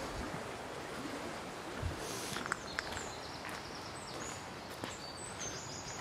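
Small birds calling with short, high chirps from about two and a half seconds in, over a steady outdoor background hiss. A few soft knocks, like footsteps, about two seconds in.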